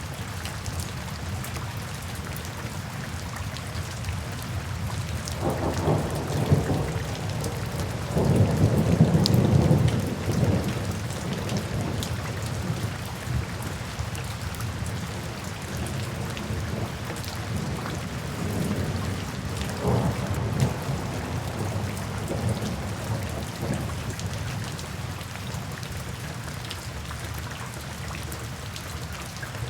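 Steady rain falling, with thunder rumbling in twice: a long roll building about six seconds in and peaking a few seconds later, then a weaker rumble around the twenty-second mark.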